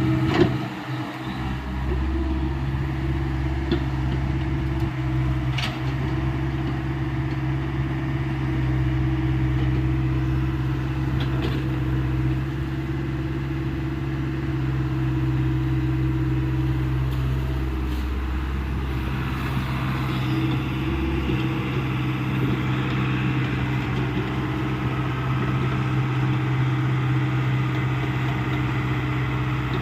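Hyundai 85 excavator's diesel engine running steadily under work, with a few sharp knocks in the first dozen seconds. The engine note changes about twenty seconds in.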